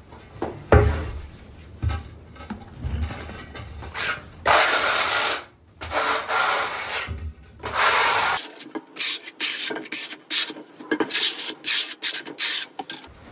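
Tiling work: scraping and rubbing strokes of a tool on tile or cement, with a few dull knocks in the first seconds and a quick run of short strokes in the second half.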